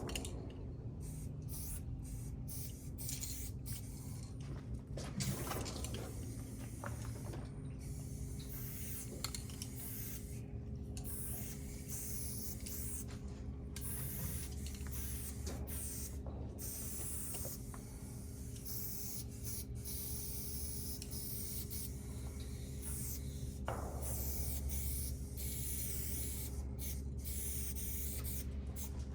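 Aerosol spray-paint can hissing in long sprays broken by many short pauses, over a steady low hum.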